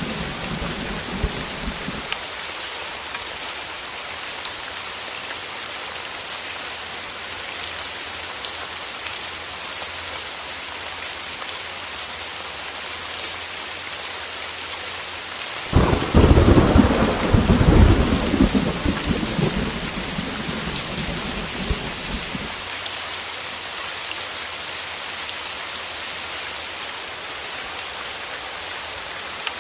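Heavy steady rain with a fading low rumble of thunder at the start, then a sudden loud thunderclap about halfway through that rumbles on for several seconds before dying away.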